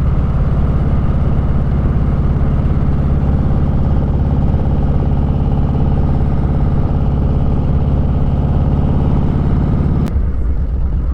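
Motorcycle engine running at a steady cruising pitch, heard from the rider's position. About ten seconds in there is a click and the engine note suddenly drops lower and quieter as the throttle is rolled off.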